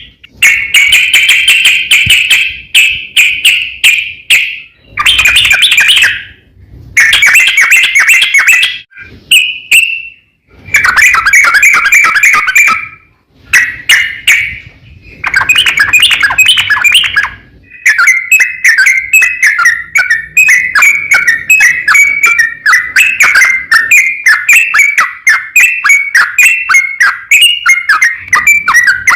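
Yellow-vented bulbul (trucukan) singing loud, long rapid warbling phrases, in bursts of a second or few with short pauses, running into a continuous fast chatter about two-thirds of the way through. It is the long 'ropel' song used to call out and provoke rival bulbuls into answering.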